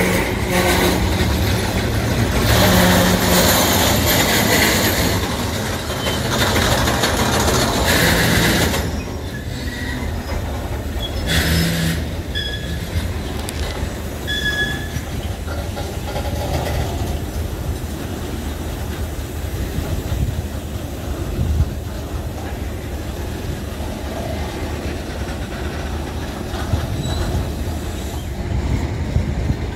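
Train running on rails: steady wheel-and-track noise, loudest for the first nine seconds or so, then lower, with a few brief high tones a few seconds after it drops.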